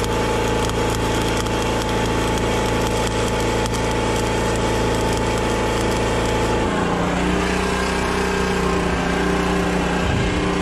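An engine running steadily under a loud crackling. About two-thirds of the way through, the engine's note changes abruptly to a different speed and the crackling fades.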